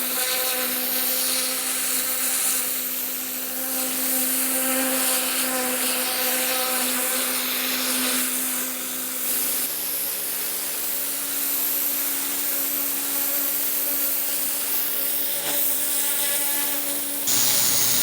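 Pressure washer spraying concrete: a steady hiss of high-pressure water over the machine's running hum, the hum's pitch shifting slightly about ten seconds in.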